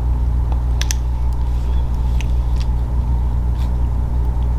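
A steady low hum, with a few faint, sharp clicks of close-miked eating: bites and mouth sounds.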